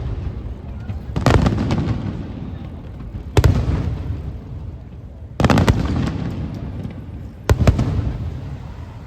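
Aerial firework shells bursting: four sharp booms about two seconds apart, each followed by a rolling rumble that fades away.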